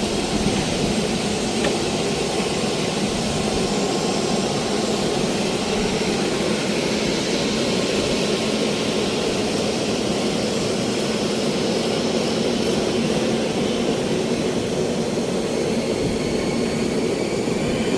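Steady aircraft engine noise, a jet engine running at a constant setting without rising or falling.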